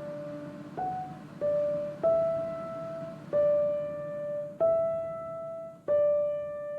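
Background music: a slow piano melody of single notes, six struck in turn about once a second, each left to ring and fade.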